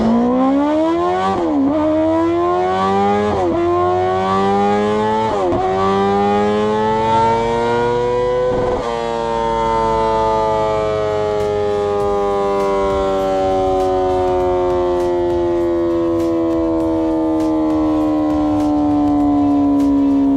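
Honda CBR1000RR-R SP Fireblade's inline-four engine accelerating hard through the gears. The revs climb and drop back at four upshifts in the first nine seconds, then the pitch sinks slowly.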